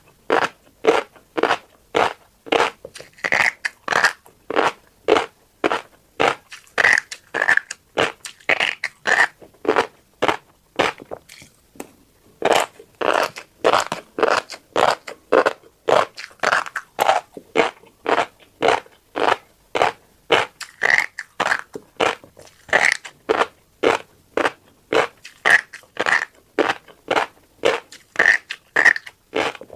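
Close-up chewing of a mouthful of tiny black seeds, crunching in a steady rhythm of about two chews a second, with a brief pause about eleven seconds in.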